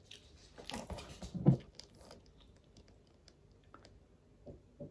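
Close eating sounds: a person chewing a bite of food, with the loudest short mouth sound about a second and a half in, then faint clicks and sips as she drinks from a glass.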